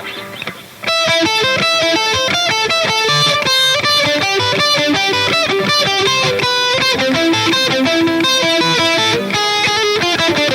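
Electric guitar played through an M-Vave Tank G multi-effects unit: after a few quiet plucks it comes in loud about a second in with a fast run of picked single notes.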